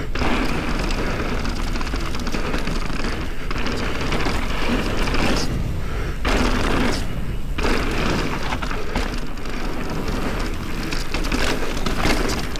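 Mountain bike riding fast down a dirt trail, heard through an action camera's microphone: a dense rush of wind buffeting with tyre rumble and the bike's rattles and knocks. It eases briefly twice just past the middle.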